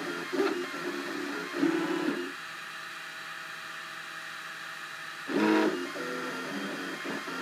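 Cubify 3D printer's stepper motors whining as the print head moves, the pitch stepping between short moves. A steady held tone runs from about two seconds in to about five seconds during a longer move.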